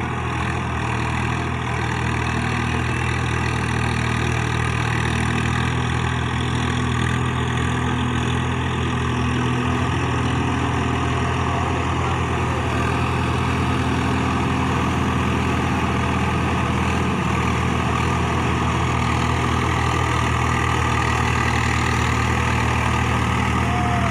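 Tractor engine running steadily at low revs, a deep even hum with no change in speed.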